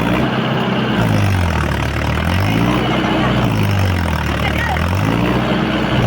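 Mahindra Yuvo 415 DI tractor's diesel engine revving up and falling back over and over, about every two seconds, straining to pull a heavily loaded trolley stuck in mud.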